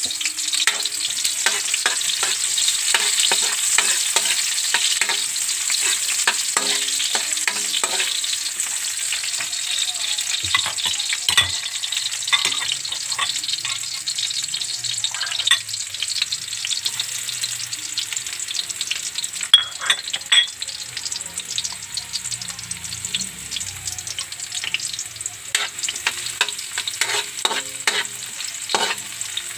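Chopped onion and garlic sizzling steadily in hot oil in a metal wok, being sautéed, with a spatula scraping and tapping against the pan as they are stirred. Two sharper knocks of the utensil on the wok come a little past two-thirds of the way through.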